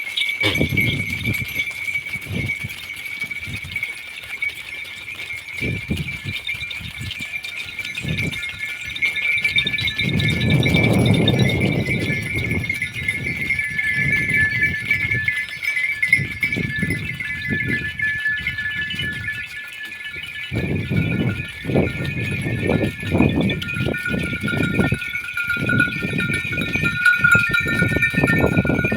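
Pateri goats bleating again and again, the calls heaviest about a third of the way in and through the last third, over a steady high-pitched drone.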